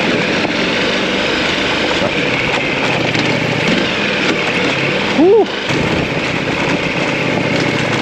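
Ducati DesertX's 937 cc V-twin engine running steadily, with one quick throttle blip that rises and falls in pitch about five seconds in.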